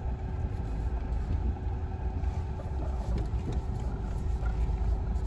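A car driving slowly along an unpaved forest track: steady low engine and road rumble.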